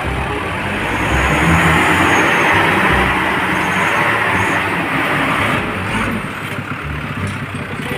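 Steady hiss of water spraying, rinsing mud off a toy truck. It is loudest between about one and five seconds in, then eases off.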